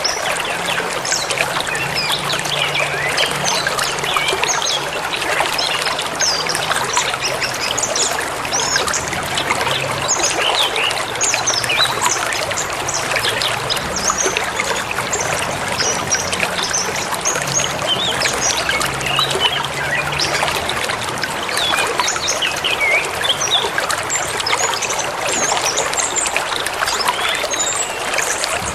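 Forest river flowing and trickling steadily, with many small birds chirping and calling over it.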